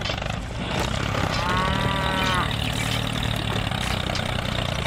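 Steady low engine hum, like a mini tractor idling, with a short pitched call about a second and a half in that lasts about a second.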